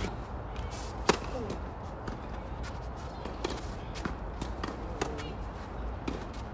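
Tennis balls being struck and bouncing on the court: one sharp, loud racket hit about a second in, then scattered lighter ball impacts.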